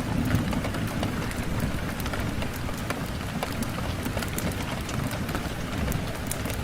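Steady rain on a window, a dense even hiss with a low rumble beneath, dotted with many small sharp ticks and crackles.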